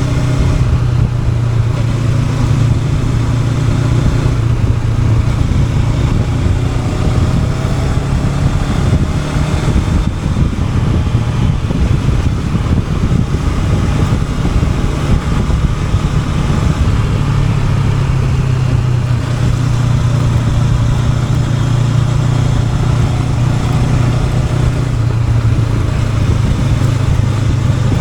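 Honda NX500's 471 cc parallel-twin engine running steadily under way, its pitch shifting a little up and down with the throttle.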